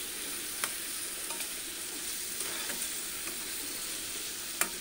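Prawns frying in oil and spiced onion masala in a pan, sizzling steadily, with a few sharp clicks of a metal spatula against the pan, the loudest near the end.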